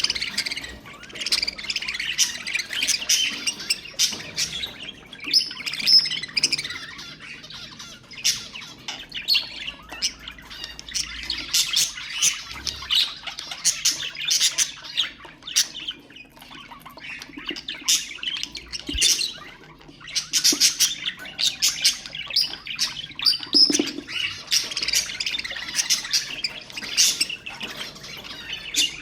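Budgerigars chattering: a dense run of quick chirps, warbles and squawks, with a couple of short lulls.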